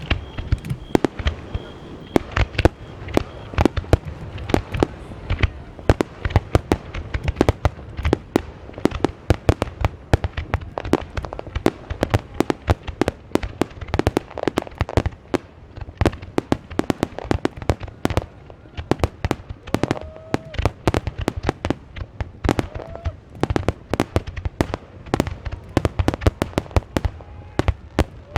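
Aerial fireworks shells bursting in a dense, continuous barrage, several bangs a second.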